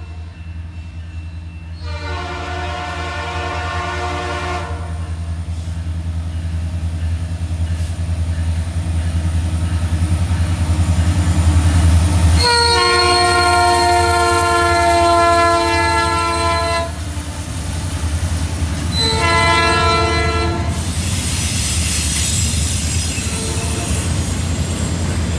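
A Canadian National freight train passes behind two diesel locomotives, and the air horn sounds three times over the deep running of the engines. The first is a long blast about two seconds in. The second, longer and loudest, comes from about twelve seconds in, and its pitch drops slightly as the lead locomotive goes by. The third is a short blast around nineteen seconds in. In the last few seconds the double-stack container cars roll past with a steady rumble and clatter of wheels.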